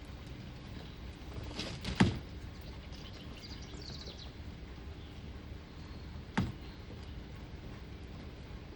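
Outdoor ambience with a steady background hiss, broken by two sharp knocks about four seconds apart, the first the louder, and a brief high bird twitter between them.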